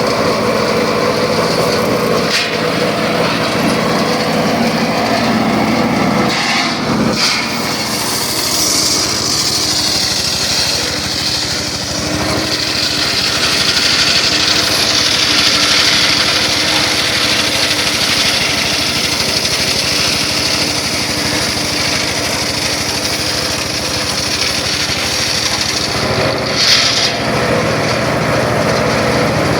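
Circular saw running steadily and cutting wood, with a brighter, harsher tone from about 8 seconds in until about 26 seconds.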